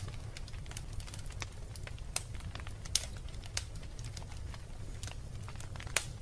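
Wood fire burning in a fireplace: a steady low rumble under irregular sharp crackles and pops, with two louder pops, one about three seconds in and one near the end.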